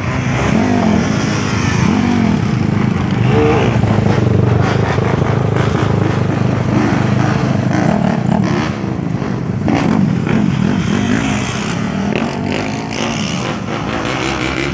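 Several dirt bike and four-wheeler engines revving and passing, their pitches rising and falling over one another.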